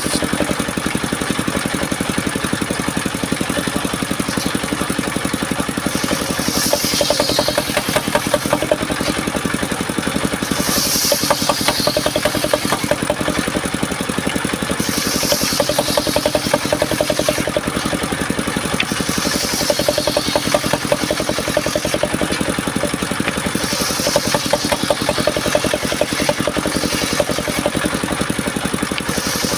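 Engine of a circular sawmill running steadily, with a brief high hiss about every four seconds.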